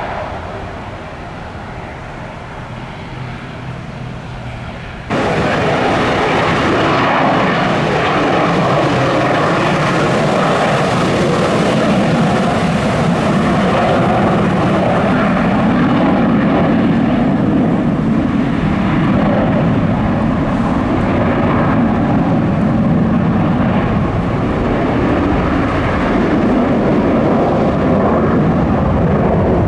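Jet aircraft engine noise: a quieter rumble for about five seconds, then loud, steady engine noise that comes in abruptly and holds.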